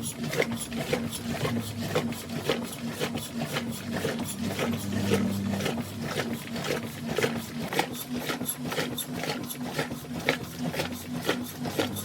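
Washing machine running, with a steady low hum and a rapid, even ticking of about three or four strokes a second.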